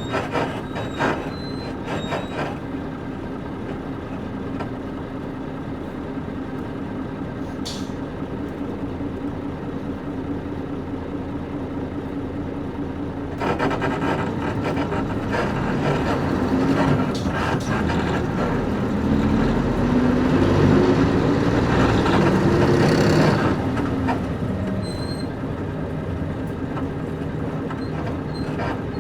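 Nissan Diesel KC-UA460LSN city bus's PG6 diesel engine running steadily with a few creaks from the leaf-spring suspension. About halfway through, the engine picks up as the bus pulls away, its pitch rising for several seconds before falling back near the end into a steadier run.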